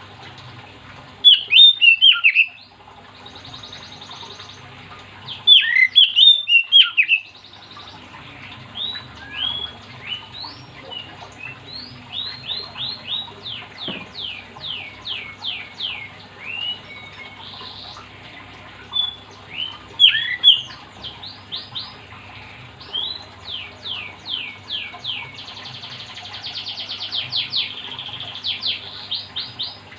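Oriental magpie-robin (kacer) singing vigorously. There are two loud bursts of harsh, jagged notes, about a second in and again around six seconds, then long runs of quick whistled notes, many falling in pitch, and a faster trill near the end.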